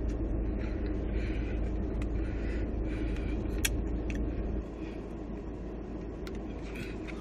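Chewing and crunching of chicken nachos with a few sharp clicks, over a steady low rumble that drops in level about four and a half seconds in.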